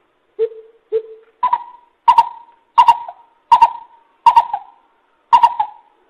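Greater coucal's hooting call, played back as a trapping lure: eight deep hoots about two-thirds of a second apart. The first two are lower and softer, then the hoots jump up in pitch and get louder.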